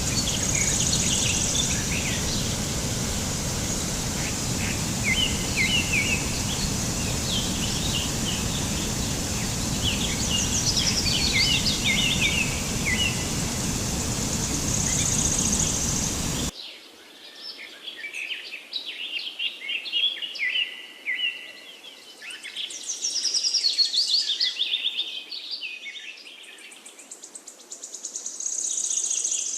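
Several small birds chirping and calling in quick, high phrases and trills, over a steady rushing background noise. The background noise cuts off suddenly a little past halfway, leaving the birdsong on its own.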